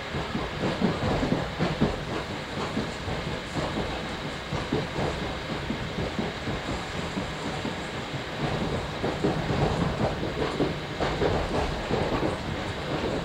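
Commuter train running at speed, heard from inside a passenger car: a steady rumble of wheels on rail with irregular clattering knocks throughout.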